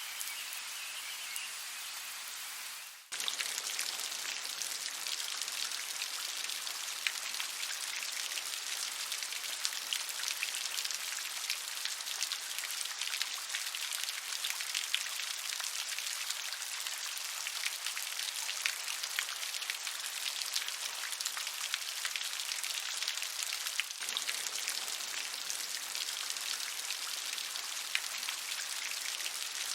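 Steady rain falling, with many separate drop hits ticking over an even hiss. About three seconds in, the sound dips briefly and comes back as a louder, denser downpour.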